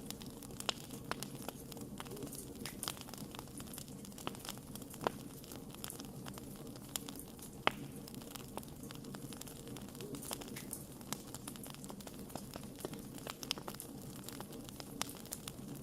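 Wood fire crackling, with a steady run of irregular sharp pops and snaps over a low hiss, one louder pop a little past halfway.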